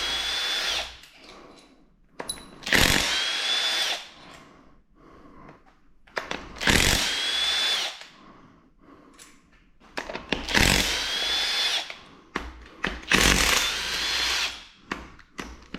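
Battery-powered power tool spinning in five short bursts, each with a rising whine, as bolts on an engine's main bearing cap assembly are run out.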